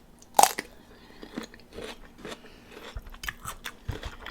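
Close-up chewing and crunching of a crispy fried chicken wing, with scattered crackly bites, the loudest about half a second in.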